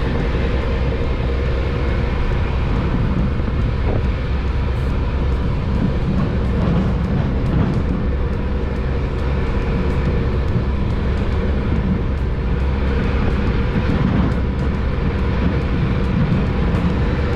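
Motor vehicle running steadily on the move: a constant engine drone with road noise.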